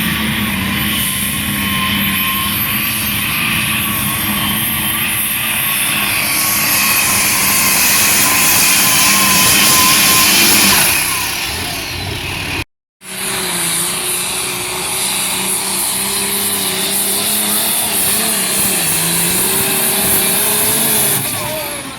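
A pulling vehicle's engine held at high revs under load as it drags the weight sled, at a steady pitch with a high whine over it, growing louder until about ten seconds in and then easing off. An abrupt cut about thirteen seconds in, then another run at high revs with the same high whine.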